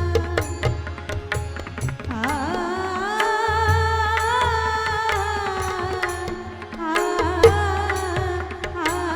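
Indian devotional song: a woman's voice slides up into a long, wavering held note, over tabla and pakhawaj strokes with a deep drum bass and a steady tone beneath.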